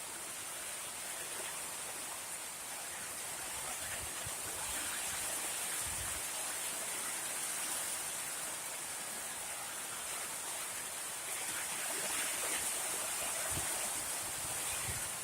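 Heavy rain pouring down as a steady hiss, with a few brief low thumps.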